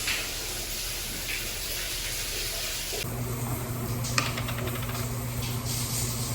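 Water running steadily in a small bathroom. About three seconds in, a steady low hum joins it.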